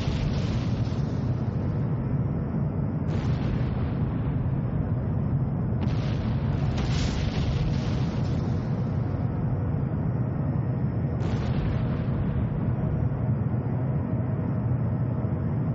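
Bombs exploding: a continuous heavy low rumble broken by several separate blasts a few seconds apart, each a sudden crack that dies away over a second or so.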